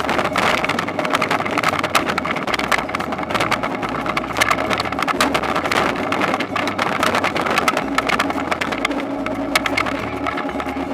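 Toyonoki potato harvester running: a steady engine note under a constant clatter of quick rattles and clicks.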